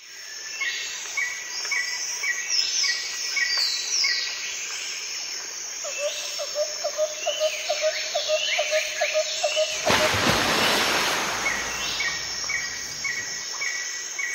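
Birds chirping and calling: a short chirp repeated about twice a second, several falling whistled notes, and a quick pulsed call of lower notes midway. A rush of noise lasting about a second and a half breaks in about two-thirds of the way through.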